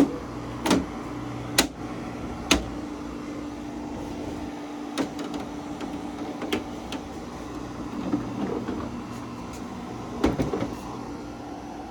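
A steady low hum from a running dehumidifier, broken by a series of sharp knocks and clunks, the loudest in the first three seconds, as the unit is handled and set in place.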